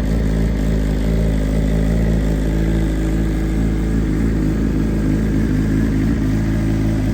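2021 BMW S1000RR's inline-four engine idling steadily through a full Akrapovic titanium GP exhaust, warming up after a cold start.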